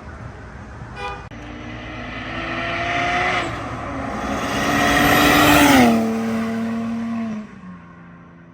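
Single-turbo BMW N54 straight-six pulling hard. The revs climb, drop at a gear change about three seconds in, and climb again to the loudest point. They then fall away as the throttle is lifted and settle to a low, steady run.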